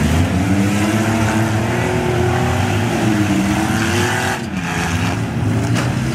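Several minivan engines revving up and down together as the vans drive and ram each other in a demolition derby, with one sharp bang near the end.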